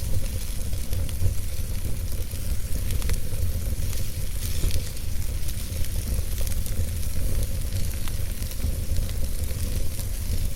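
Wood fire burning in a fireplace: a low steady rumble of the flames with frequent small crackles and pops from the burning logs.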